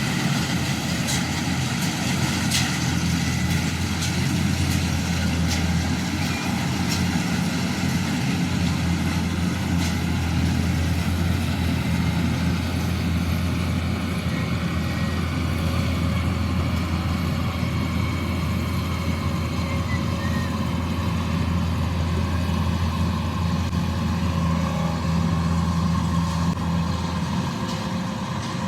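Combine harvester engine running steadily with a deep, constant hum, with a few light clicks in the first ten seconds or so.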